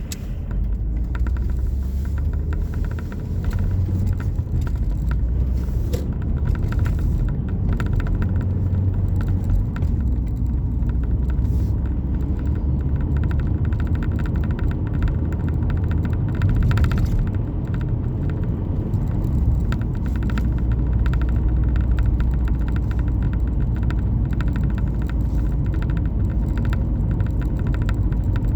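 Steady low rumble of a car driving, with faint clicks and crackle throughout.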